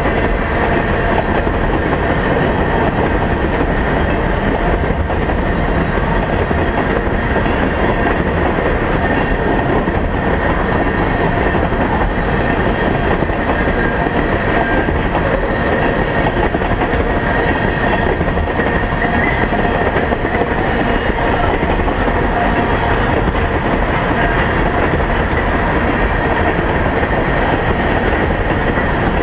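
Freight train of tank cars rolling steadily past: a continuous rumble and clatter of steel wheels on the rails, unchanging throughout, with a faint high ringing above it.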